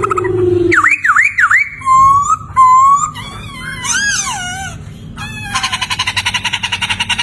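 Poksay (laughingthrush) singing: a run of loud whistled notes that swoop up and down, followed by a fast rattling trill through the last second and a half.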